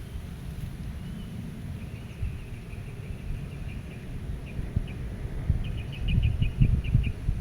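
Meadow ambience: wind rumbling low and unevenly, with a gust near the end, while a small bird sings high, thin trills, ending in a quick run of rapid notes.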